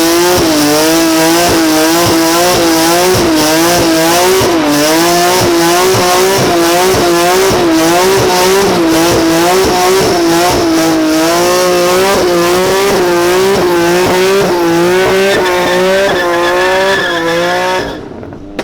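A car's tyres squealing in a long sustained skid, the pitch wavering up and down as the car slides and the engine is held hard. It cuts off near the end.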